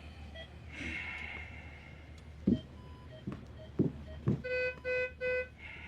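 A low steady hum with a few dull knocks, then three short identical beeps about half a second apart.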